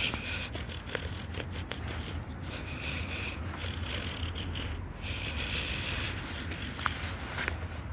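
Rustling and scraping, with a few light clicks, over a steady low rumble.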